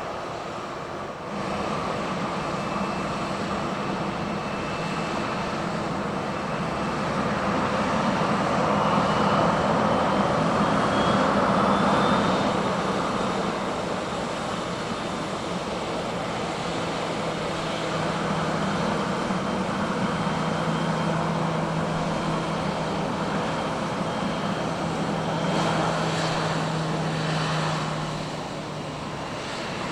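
Jet engines of a Boeing 737-800 airliner (CFM56-7B turbofans) running with a steady drone. A faint whine rises in pitch about nine to twelve seconds in. The sound swells in the middle and eases slightly near the end.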